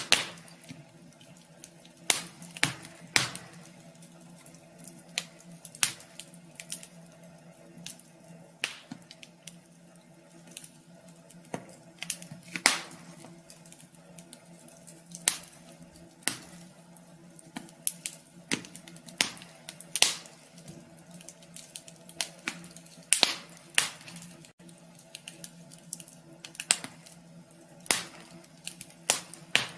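Wood fire crackling in a wood stove: irregular sharp pops and snaps of burning logs, over a faint steady hum.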